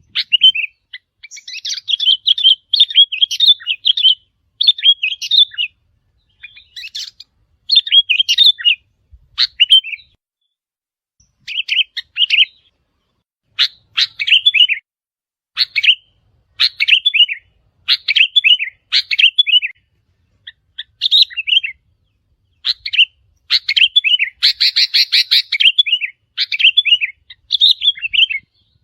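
Sooty-headed bulbul song: short, quick whistled phrases repeated about once a second, with a few brief pauses between bouts.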